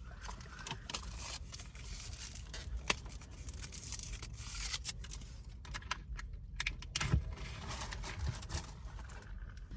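Paper fast-food packaging crinkling and rustling as it is handled, with scattered small clicks and taps.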